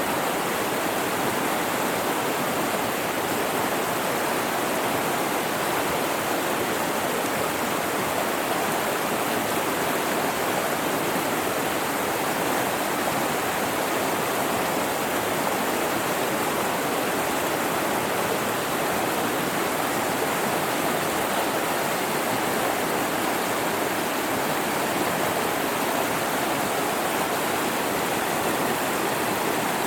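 Mountain river rushing steadily over rocks, a constant even wash of water.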